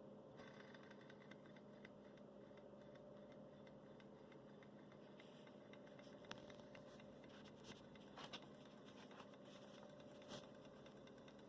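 Near silence: a faint steady hum with a few scattered light clicks.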